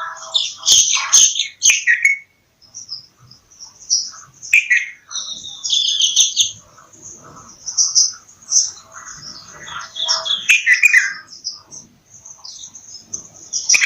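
Bulbuls chirping and calling: bright, quick chirps and short trills in bursts every second or two, overlapping one another.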